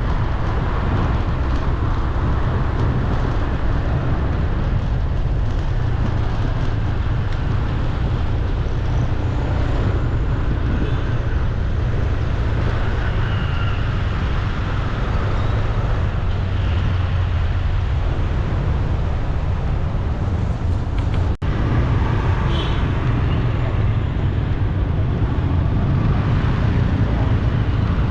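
Steady road traffic noise with a heavy low rumble, briefly cut out about 21 seconds in.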